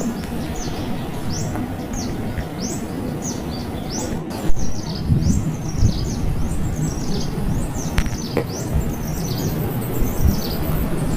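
Small bird chirping over and over in short, high calls that sweep downward in pitch. They come about two a second at first and thicker and faster after the middle, over a steady low rumble.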